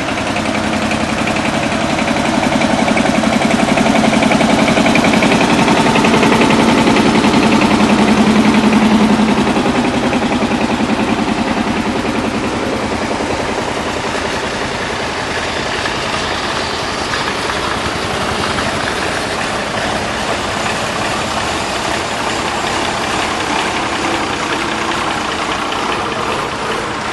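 Vintage tractor engines running as tractors go by in a parade. One grows louder as it comes close, is loudest about eight or nine seconds in, then fades, leaving a steady run of engine sound.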